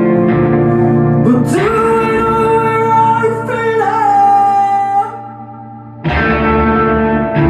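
Live post-hardcore band playing loudly: distorted electric guitar, bass and drums with long held, bending notes over them. About 5 seconds in the band cuts out almost completely, then crashes back in a second later.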